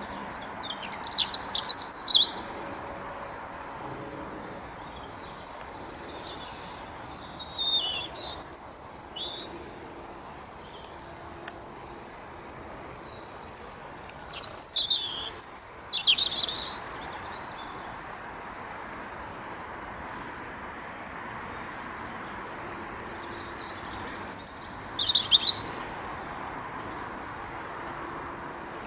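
European robin singing: four short phrases of high, tumbling, quickly varied notes, separated by pauses of several seconds, over a steady background hiss.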